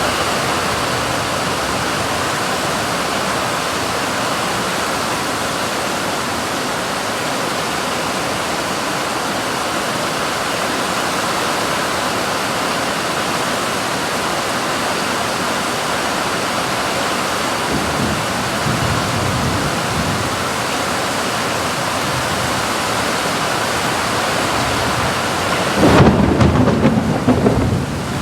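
Heavy rain falling steadily in a thunderstorm, with a low rumble of thunder midway and a louder rumble near the end.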